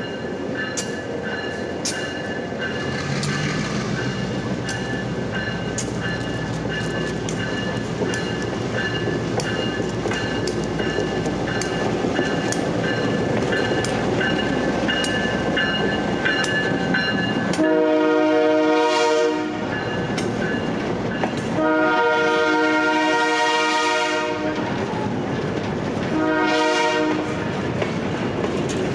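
Freight train with a diesel locomotive rolling slowly past close by, its engine running and its wheels clicking over the rail joints about once a second. About two-thirds of the way in, the locomotive's horn sounds two long blasts and then a short one, the start of the long-long-short-long grade-crossing signal.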